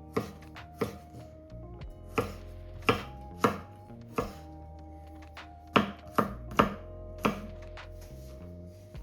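Knife chopping on a cutting board: about ten sharp strokes at an uneven pace, over soft background music.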